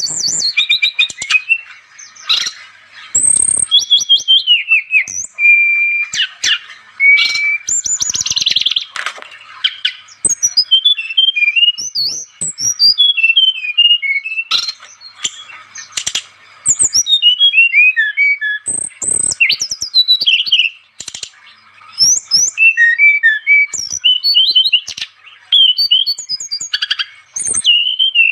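Brown-chested jungle flycatcher (SRDC) singing loudly and continuously: a fast, varied run of high whistled notes and quick downward-sweeping phrases, with only brief pauses.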